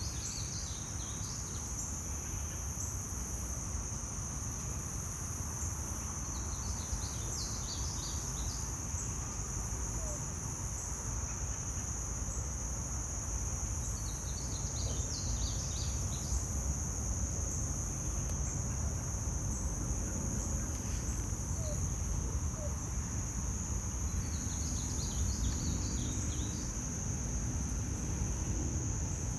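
Forest ambience in summer: a steady high-pitched insect trill, with a bird singing a short phrase four times, several seconds apart. A low steady rumble runs underneath.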